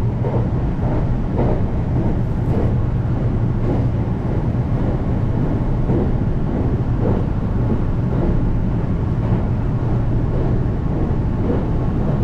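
Steady running noise of a local electric train heard from inside the carriage at speed: a continuous low rumble of wheels on rail and running gear.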